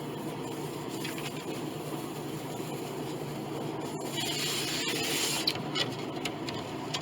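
Scraping and sanding on the wooden bridge of an antique grand piano: irregular rasping strokes, heaviest about four to six seconds in, over a steady low hum.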